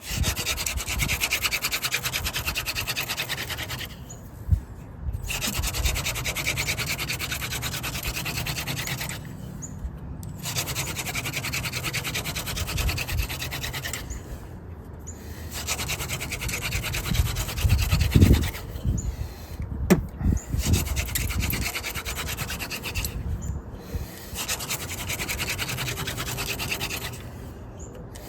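Yucca hand-drill spindle spun between the palms in a dry winter creeper fireboard, wood rubbing on wood. It runs as a steady scraping friction in bouts of about four to five seconds, with brief pauses between them, about six times.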